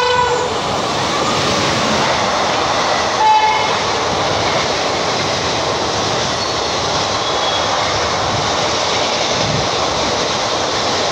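Indian Railways electric locomotive sounding two short horn blasts, one at the start and one about three seconds later, as it hauls an express train through the station at speed. Under and after the horn, the coaches' wheels keep up a loud, steady rumble and rattle on the track.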